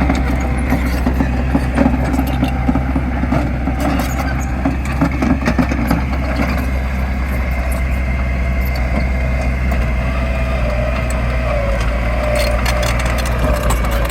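Heavy earthmoving machine's diesel engine running steadily under work, with a wavering whine over it and a few sharp clanks near the end.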